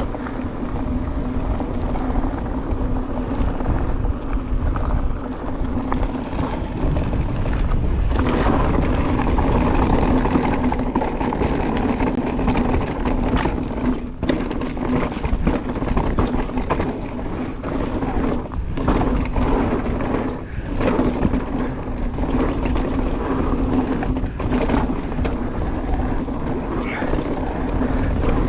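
Electric mountain bike riding over a dirt trail: continuous rumble of wind and tyres, a steady low hum, and scattered knocks and rattles from the bike over rough ground.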